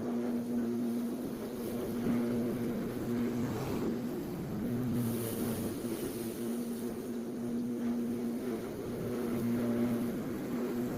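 Lawn mower running steadily with a constant hum, its note briefly dropping away and returning several times as the load changes.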